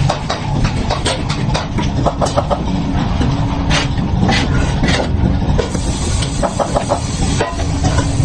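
Foundry workshop noise: a steady low rumble with scattered sharp knocks and clinks, several in quick succession.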